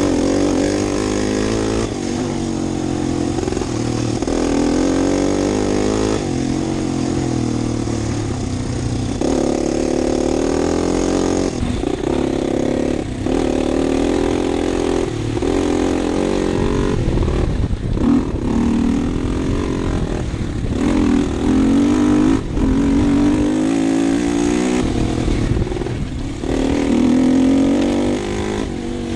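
2012 Husqvarna TE250 single-cylinder four-stroke enduro bike engine under way, revs rising and falling over and over as the throttle opens and closes, with several brief drops in the revs.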